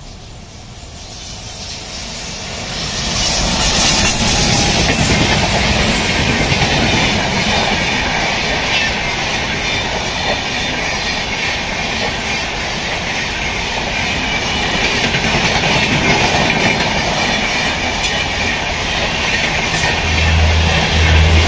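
Passenger express of LHB coaches passing at speed close by: the noise swells over the first three seconds as the train comes up, then holds as a steady rushing roar with wheels clattering over the rails. A low hum joins near the end.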